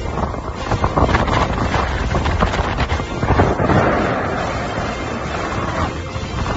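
Strong wind buffeting the microphone in irregular gusts, a little louder in the first four seconds.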